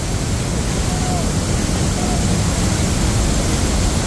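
Sapo Falls (Salto El Sapo) pouring close by: a loud, steady roar of falling water.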